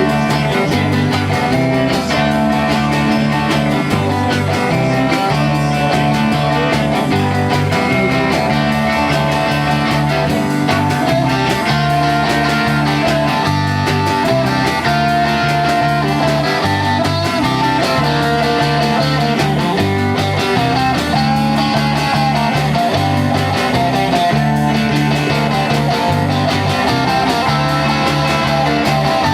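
A rock band playing an instrumental passage led by guitar, with no singing.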